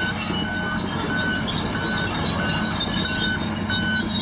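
Tracked logging machine reversing, its backup alarm beeping steadily about every 0.6 s over the engine drone, while the track undercarriage squeaks in high tones. The squeak means the rails and rollers are turning freely, not seized up.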